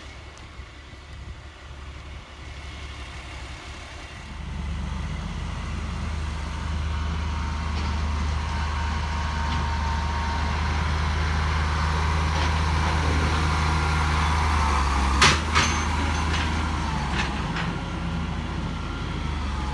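Truck engine running, louder from about four seconds in, with a faint whine over the rumble. A sharp metallic knock comes about three-quarters of the way through, followed by a few lighter clicks.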